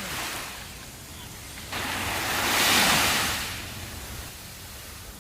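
Sea waves on a sandy beach: a steady surf hiss, with one wave that comes in suddenly about two seconds in, swells and washes up, then fades away.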